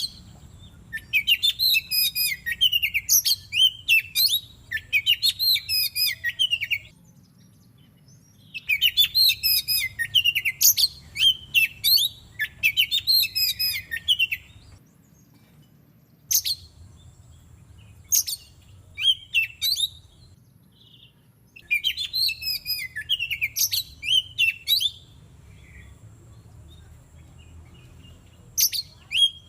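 Oriental magpie-robin singing in bouts of several seconds of rapid, varied whistled phrases, broken by pauses with a few single short notes. This is the song used to coax caged magpie-robins into singing.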